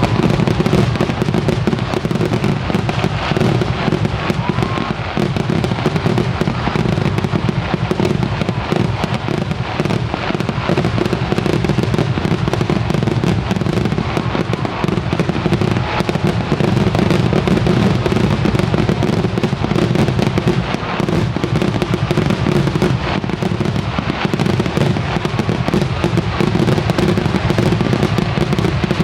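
Kerala temple-festival fireworks (vedikettu) in full barrage: a dense, unbroken run of overlapping explosions and crackling, with no letup.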